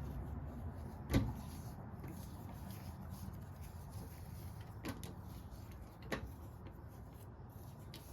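A few knocks and clicks of small parts being handled on a workbench, one sharp knock about a second in and fainter clicks later, over a steady low rumble.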